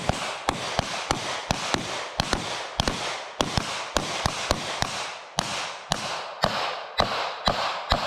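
Several pistols firing in rapid, uneven succession, about three to four shots a second, as a line of shooters fire until their magazines run dry.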